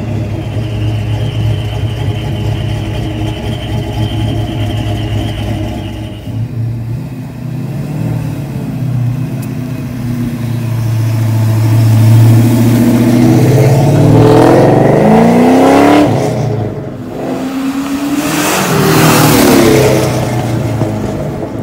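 Vortech V1-supercharged Ford V8 in a Foxbody Mustang notchback, with a TFS1 camshaft and Flowmaster exhaust, running at low revs as the car moves off, then revved hard twice, its pitch rising sharply each time. The two pulls are the loudest part, the second near the end.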